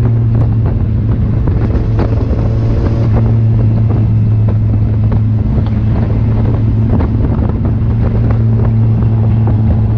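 Kawasaki Z800's inline-four engine running at steady revs while riding, with wind buffeting the microphone.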